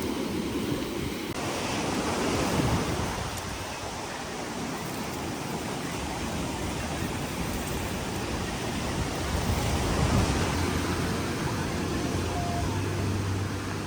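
Strong sea wind and surf making a steady rushing noise that swells and eases. A faint low hum comes in near the end.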